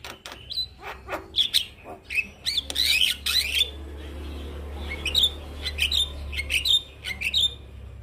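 Male Javan myna calling in a rapid string of short, sharp whistles and chattering notes, with a harsh noisy burst about three seconds in; the calls stop shortly before the end.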